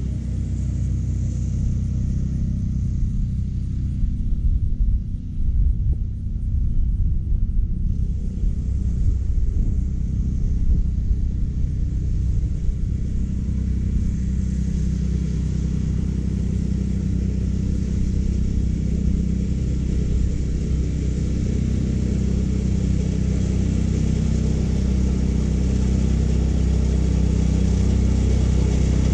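California Trimmer reel mower's small gasoline engine running steadily while mowing short bermuda grass. The sound is rougher and more uneven from about four to twelve seconds in, then evens out.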